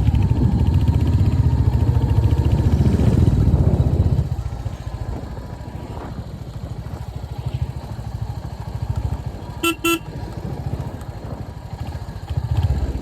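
Royal Enfield Hunter 350's single-cylinder engine running loud under throttle, then much quieter from about four seconds in. Two short horn toots sound just before ten seconds in.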